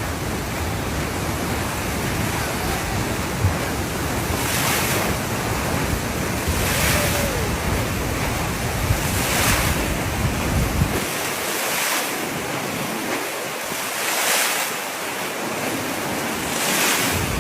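Ocean waves breaking and rushing in repeated surges every few seconds. Wind buffets the microphone with a low rumble that drops away about two-thirds of the way through.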